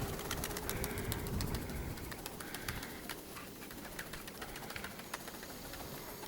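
Domestic pigeons cooing at a moderate level, over a steady crackle of small sharp clicks.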